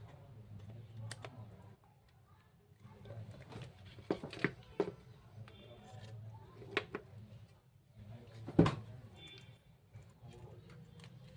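Scattered clicks and knocks of small parts and tools being handled during a loudspeaker repair, over a low steady hum, with one sharper knock late on.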